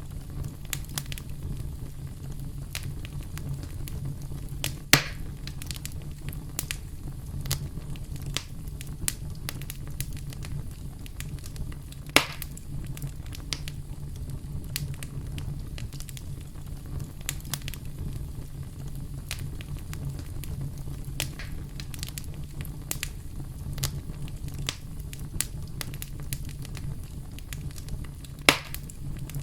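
Campfire burning and crackling: a steady low rumble of the flames under frequent small crackles of burning wood, with three louder pops, about five seconds in, about twelve seconds in, and near the end.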